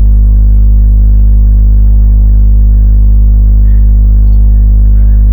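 Loud, steady low electrical hum with a buzzy stack of overtones, unchanging throughout.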